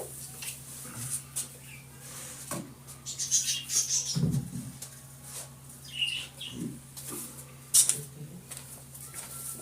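Scattered rustles, taps and clicks of craft materials being handled and placed, with a sharp click about three-quarters of the way through, over a steady low hum.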